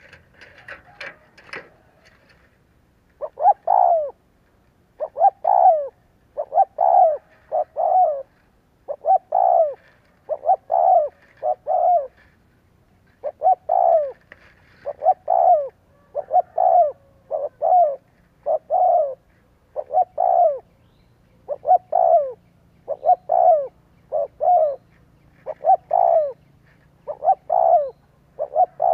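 Spotted dove cooing over and over, a steady series of short low phrases of two or three coos each, the excited calling used as a lure to set wild doves calling. A brief scratchy noise comes in the first two seconds before the coos begin.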